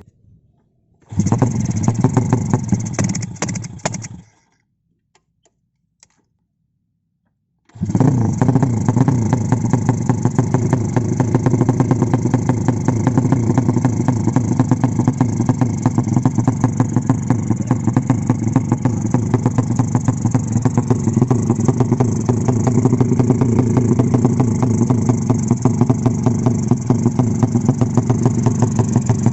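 Racing motorcycle engine fired up. It runs for about three seconds and cuts out, then is restarted about eight seconds in and keeps running steadily with a rapid, even firing beat.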